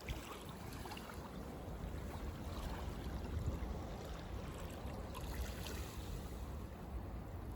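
Sea waves washing in under strong wind, with wind rumbling on the microphone. The hiss of the surf swells about five seconds in.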